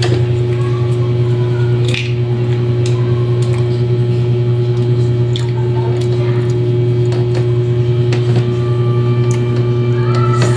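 Close-up mouth sounds of eating boiled egg and boiled banana: soft squishy chewing and smacking with scattered small clicks. Under it runs a loud steady low hum.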